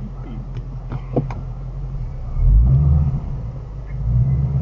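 Shelby GT350's V8 running at low speed as the car is moved to reproduce a reported clunk. The engine note swells twice, about two and a half seconds in and again near four seconds, and a few light clicks sound about a second in.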